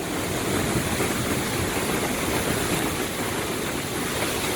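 Large waterfall pouring: a steady, even rush of falling water.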